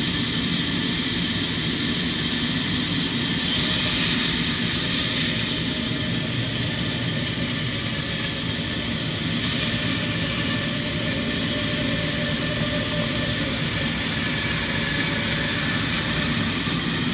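Sawmill machinery running steadily, with a brighter, hissier edge from about three seconds in for some six seconds, as when the saw is in the cut of a neem log.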